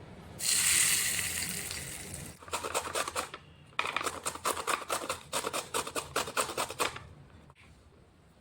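Vegetables being cut or grated by hand in quick rhythmic strokes, about five a second: a short run, a brief pause, then a longer run. Before it comes a burst of hiss that fades over about two seconds.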